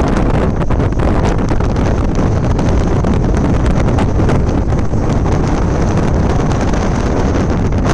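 Strong wind buffeting the microphone: a loud, steady rumbling roar heaviest in the low range.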